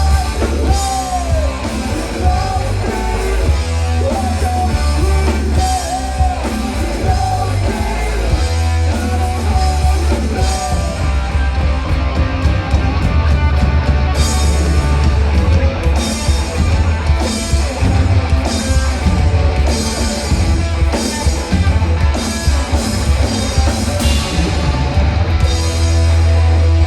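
Live rock band playing loud: electric guitar, bass and drum kit, with a heavy bass line; the cymbals come in strongly about halfway through.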